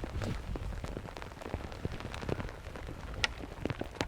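Rain falling, with many separate drops ticking close to the microphone over a steady patter, and two louder sharp drop ticks near the end. A low rumble fades away over the first second.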